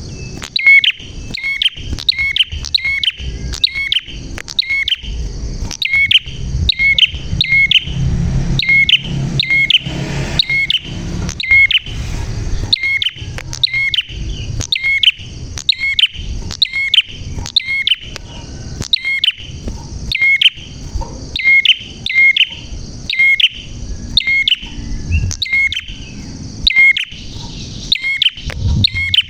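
Prenjak (prinia) calling without pause: a sharp, high chirp repeated about once a second.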